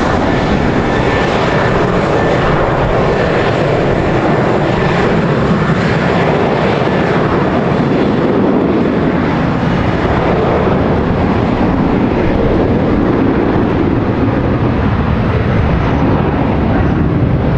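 Airliner engines running loud and steady as the plane passes close by, a dense roar with sweeping changes in tone. A faint high whine fades out in the first half.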